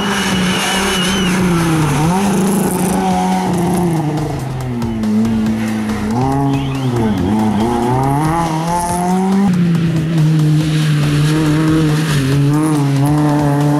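Rally car engine running hard at high revs, its pitch holding, then dipping and climbing again several times as it comes off and back onto the throttle.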